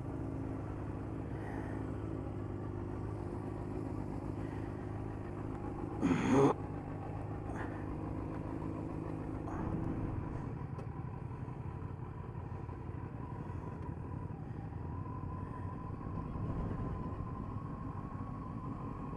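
Steady low rumble of vehicle engines running. There is one short loud sound about six seconds in, and a faint steady whine through the second half.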